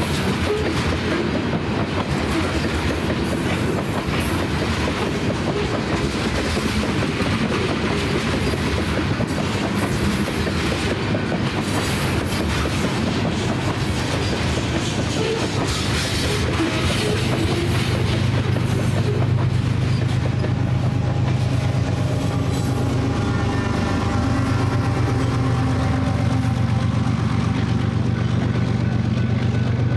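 Freight train tank cars rolling past with a steady clickety-clack of steel wheels on the rails. From about halfway through, a steady low diesel engine drone builds up as a trailing BNSF diesel locomotive at the rear of the train comes by.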